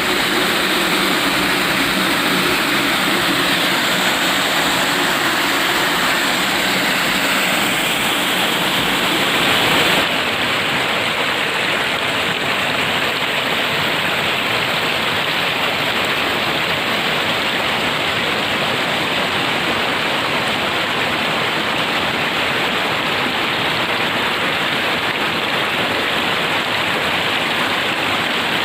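Small waterfall on a mountain stream, water rushing and splashing steadily. About ten seconds in the sound changes abruptly, with less hiss in the highs.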